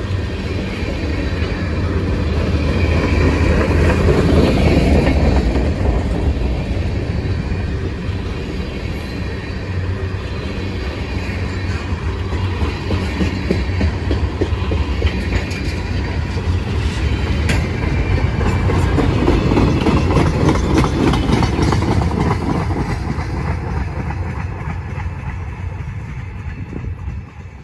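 Mixed freight train of tank cars and gondolas rolling past, its steel wheels clacking steadily over the rail joints. The sound swells twice, then fades away near the end as the last cars pull off into the distance.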